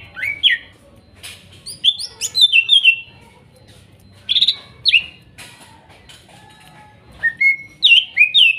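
Greater green leafbird (cucak ijo) singing in short bursts of quick, falling whistled notes, with pauses of a second or two between phrases.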